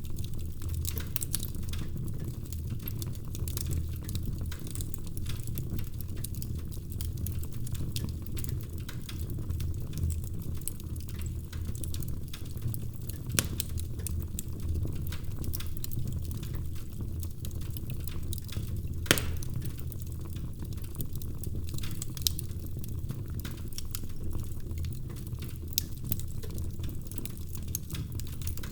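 Wood fire burning in a fireplace: a steady low rumble of the flames with irregular crackles and snaps, and a sharp pop about nineteen seconds in.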